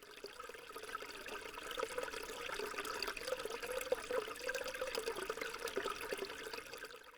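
Running water, a steady flickering splash and trickle, cut off abruptly at the very end.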